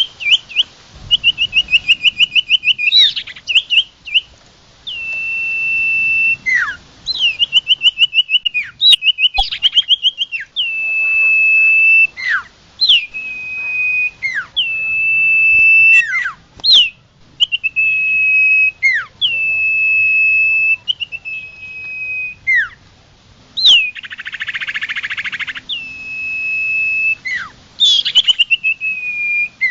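Sirtu songbird singing loudly in repeated phrases: fast trilled rattles alternate with steady held whistles about a second long, each opened by a sharp downward-sliding note. There is a short harsh, buzzy note near the end.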